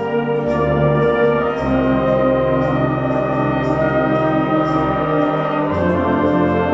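A concert band playing, brass prominent, with sustained chords and a moving bass line.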